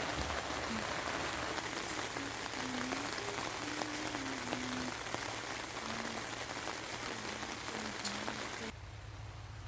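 Steady rain falling, an even hiss dotted with individual drop ticks, which cuts off abruptly about nine seconds in.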